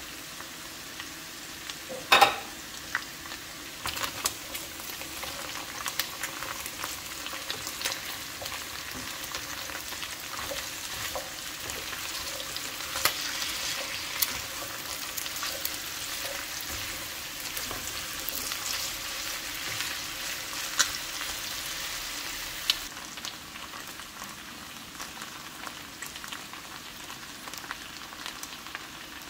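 Cubes of lamb, carrot and potato sizzling in a pot of hot butter and olive oil while a silicone spatula stirs them, with frequent clicks and clacks against the pot. A sharp knock about two seconds in is the loudest sound, and the sizzle grows quieter about three quarters of the way through.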